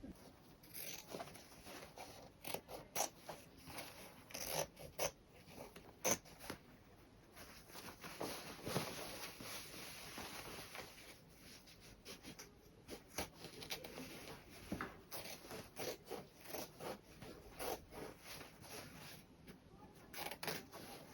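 Fabric being handled at close range during sewing work: cloth rustling with many irregular small clicks and snips from hand tools.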